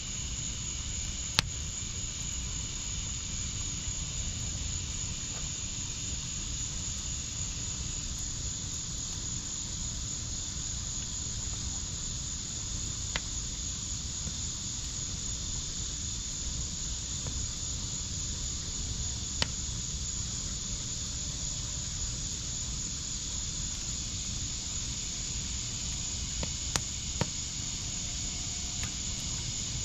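Wood burning in a fire pit, a steady low hiss and crackle with a handful of sharp pops, two close together near the end. A steady high insect trill runs underneath throughout.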